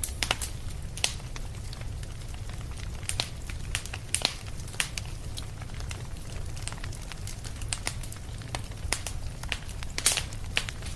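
Wood fire crackling in a fireplace: irregular sharp pops and snaps, the loudest about four and ten seconds in, over a steady low rumble.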